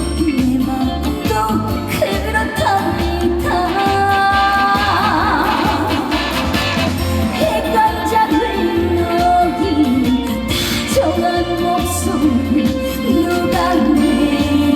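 A woman singing a trot song live over a full band with a steady beat, her voice held and wavering on long notes.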